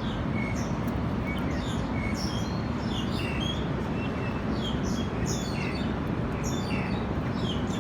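Small birds chirping: many short, high calls in quick succession over a steady low background rumble.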